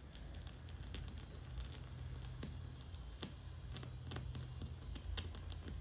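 Small, irregular clicks and ticks of a pointed tool picking at a star break in a windshield, knocking loose glass chips out of the crack, over a low steady hum.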